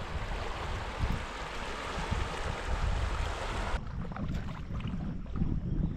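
River water rushing with wind rumbling on the microphone from a moving canoe. The rushing hiss cuts off suddenly about two thirds through, leaving the low wind rumble and a few light knocks.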